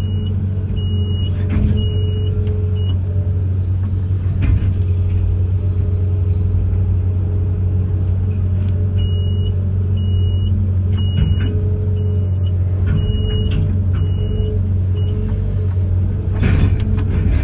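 Amphibious excavator's engine running with a steady low drone, while a high alarm beeps about twice a second, at the start and again in the middle. A few knocks come near the end.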